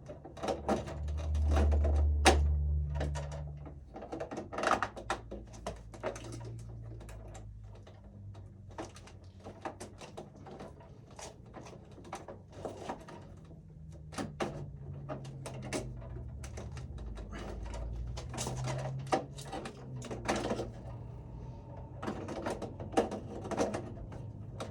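Irregular clicks and plastic knocks of a 20-amp AFCI circuit breaker being handled and pressed down onto the load center's bus bar, one sharper click a little after two seconds in.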